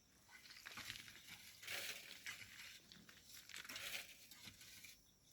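Quiet, gritty scraping and crunching of volcanic sand and gravel being shifted with hand tools, in a few short bursts.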